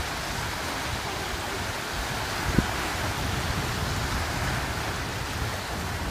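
Steady rushing noise of wind and waves on open water, with a single short knock about two and a half seconds in.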